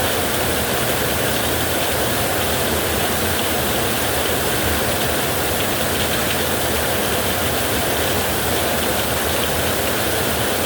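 Heavy rain with storm wind, a steady, even rushing hiss with no breaks.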